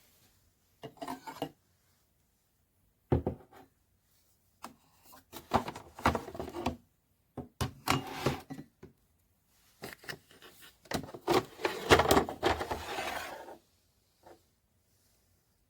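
Irregular scraping, rubbing and knocking of handled objects, in several bursts with silent gaps between them; the longest and loudest scraping comes near the end, followed by one last small click.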